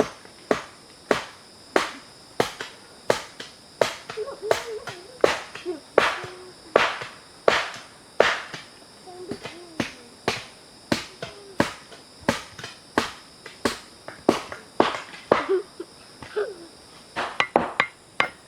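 Wood being chopped, with a steady run of sharp blows about three every two seconds, over a faint steady high-pitched drone.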